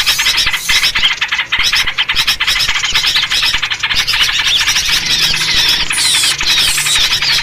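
A dense, noisy commotion of small birds chattering and chirping all at once, a lure recording built around yellow-vented bulbul (trucuk) calls. Quick downward-slurring calls stand out from about five seconds in.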